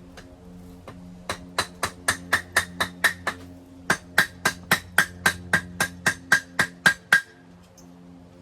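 Hand hammer striking hot steel on an anvil, about four blows a second in two runs with a short pause between, each blow ringing: forge welding a chain link.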